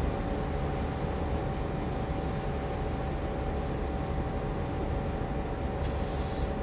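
Steady low rumble of a train running, with a steady hum over it and a brief hiss near the end.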